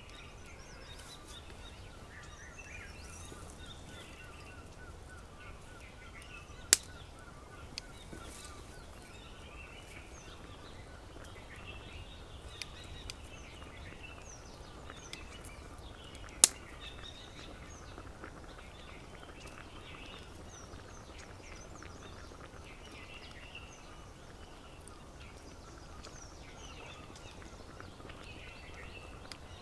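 Several birds chirping and calling at once, with a fast, even trill in the first few seconds, over a low steady rumble. Two sharp snaps, about seven and sixteen seconds in, stand out as the loudest sounds.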